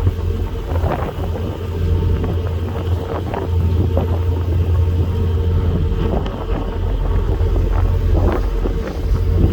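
Passenger ferry's engines droning with a steady low rumble, with wind noise on the microphone on the open deck.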